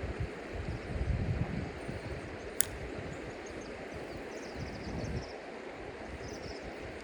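Outdoor ambience: uneven low gusts of wind buffeting the microphone, strongest about a second in, a single sharp click a little past halfway to the middle, and faint short high chirps later on.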